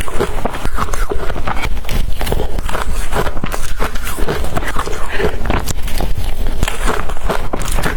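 Close, loud crunching of blender-crushed ice being bitten and chewed, a dense run of sharp crackling crunches.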